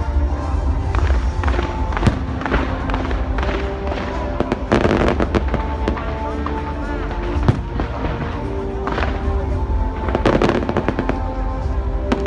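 New Year fireworks going off in repeated bangs and crackles over loud music with heavy bass.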